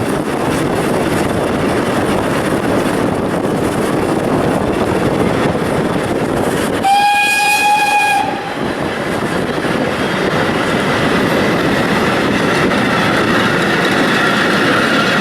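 Train running with a steady rumble and clatter of wheels on rail. About seven seconds in, the Ol49 steam locomotive's whistle gives a single steady blast of just over a second.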